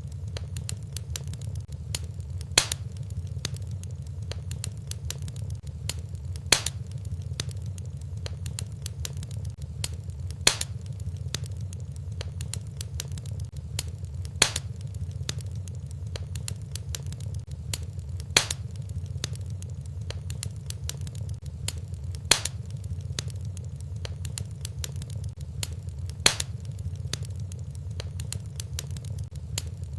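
Fireplace fire crackling over a steady low rumble, with many faint crackles and a sharper, louder pop about every four seconds.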